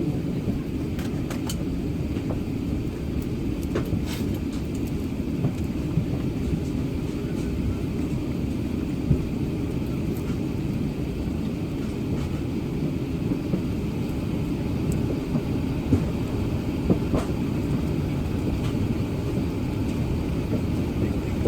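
Airbus A380-800 heard from inside the passenger cabin: a steady low rumble of engines and airframe, with a few faint clicks and knocks.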